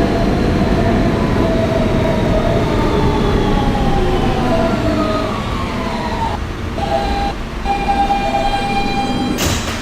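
Siemens traction propulsion of an R160B subway car whining, its several tones falling steadily in pitch as the train brakes into a station, then holding steady as it slows to a stop. A short burst of hiss comes near the end.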